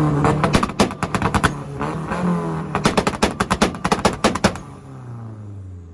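Nissan car's engine revved against a two-step launch limiter, firing rapid volleys of exhaust pops and bangs in two spells. It drops back to idle about four and a half seconds in.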